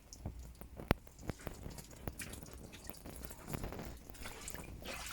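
Water from a garden hose dripping and spattering: irregular sharp drips, a few a second.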